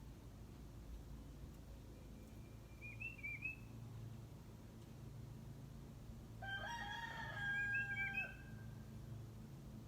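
A rooster crows once, a single drawn-out call of nearly two seconds past the middle. Short high chirps from a small bird come a few seconds earlier and again over the crow, above a steady low hum.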